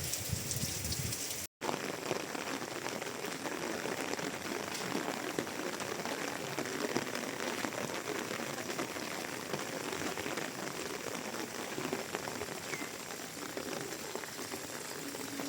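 Steady rain falling, a dense patter of many drops. The sound cuts out for an instant about a second and a half in, then the rain carries on evenly.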